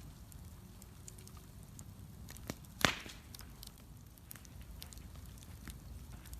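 Wood bonfire crackling, with scattered small snaps and one loud sharp pop about three seconds in, over a low rumble.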